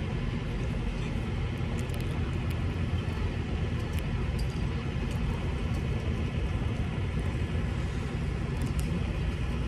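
Semi truck's engine running steadily under road noise, a constant low drone heard from inside the cab while driving.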